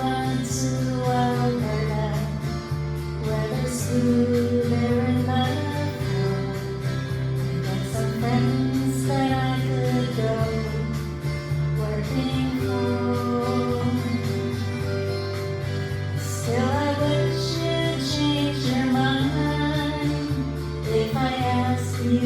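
Music: a woman singing a slow folk song over guitar accompaniment.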